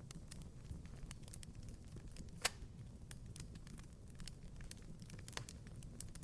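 Wood fire crackling: scattered small snaps over a steady low rumble, with one sharp pop about two and a half seconds in and a smaller one a few seconds later.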